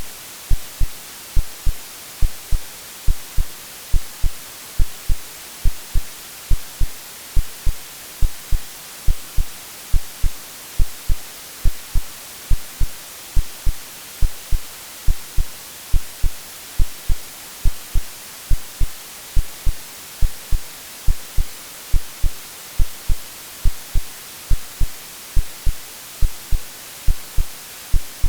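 A synthetic heartbeat, low thumps repeating at an even steady pace, over a constant hiss of white noise. It is an AI-generated sound made to resemble the womb sounds a baby hears before birth.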